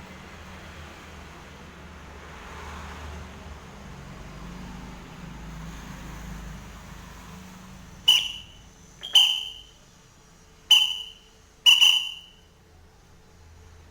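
White-breasted woodswallow (kekep babi) giving four short, sharp calls about a second apart in the second half, after several seconds of low background noise.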